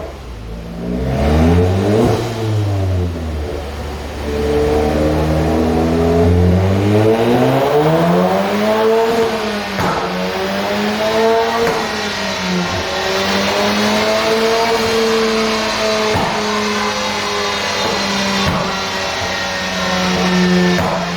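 Stage 2-tuned Seat Leon Cupra's turbocharged 2.0 TSI four-cylinder engine revving and pulling, its note rising and dropping several times, with a few short sharp cracks from the exhaust. It then holds a steadier, slowly climbing note.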